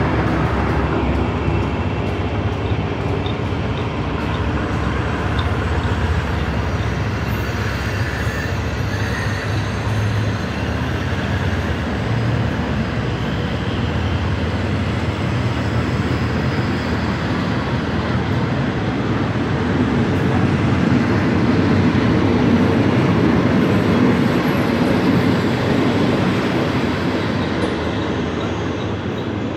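Passenger train coaches rolling past along the platform: a steady rumble of wheels running on the rails, growing a little louder about two-thirds of the way through.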